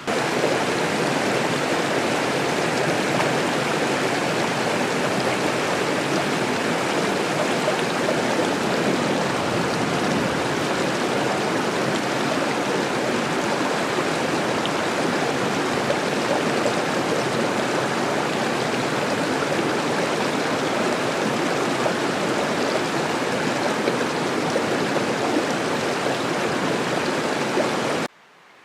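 Steady rushing of a stream's running water, cutting off suddenly near the end.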